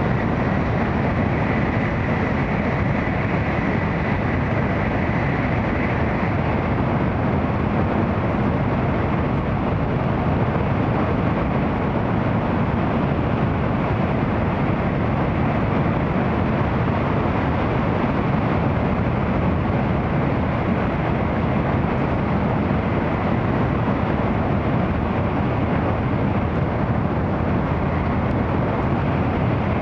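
Steady running noise of an N700 series Shinkansen, heard from inside the passenger cabin: an even, dense rumble of wheels, track and air. A faint high tone sits over it for the first few seconds and fades out about six seconds in.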